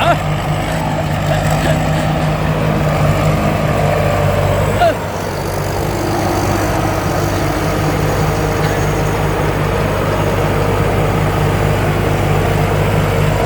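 Rice combine harvester's 260 hp diesel engine running steadily, with a short dip in level about five seconds in.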